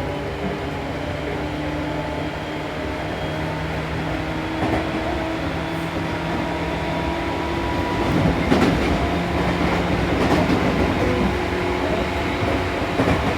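Seibu New 2000 series electric train running between stations, its traction motor whine rising slowly in pitch over the running rumble as it gathers speed. A stretch of clatter from the wheels over the rails comes a little past the middle.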